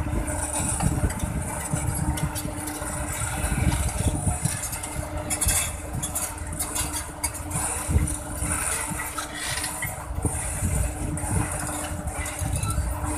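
Sany SR150C rotary drilling rig's diesel engine running with a steady hum, while the crawler rig travels, with scattered clicks and rattles around the middle.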